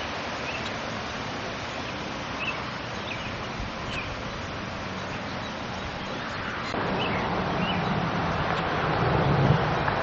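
Steady rushing noise with small birds chirping now and then; the rushing grows louder about two-thirds of the way through.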